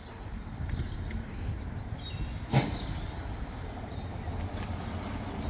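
Birds chirping faintly over a steady low rumble, with one sharp knock about two and a half seconds in.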